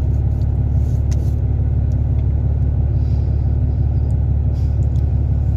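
Steady low rumble with a constant hum, and a few faint clicks over it.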